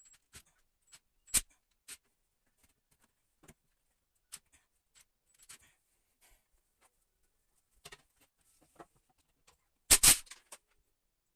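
Scattered clicks and knocks of a plastic toilet seat and bidet attachment being handled and fitted, with a sharp knock about a second in and a loud double clatter near the end.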